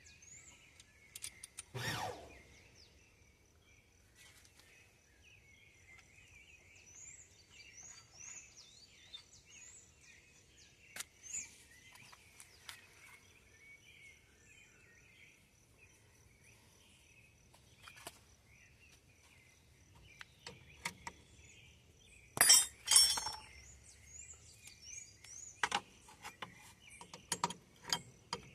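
Scattered sharp metal clinks and knocks of tools and parts being handled, the loudest a double clatter about 22 seconds in, with a cluster of clinks near the end. Birds chirp steadily in the background.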